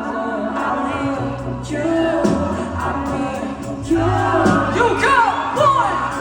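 Live pop concert music: a singer's voice gliding through a melodic line over band accompaniment with sustained bass.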